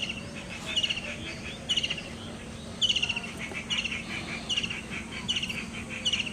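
A bird calling over and over, a short sharp chirp repeated a little more than once a second.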